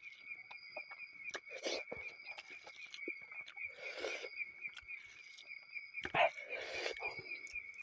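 Close-up eating sounds, chewing and lip smacks with scattered wet clicks as rice and pork curry are eaten by hand. The loudest burst comes just after six seconds. Under it, insects keep up a steady, pulsing, high-pitched chirping.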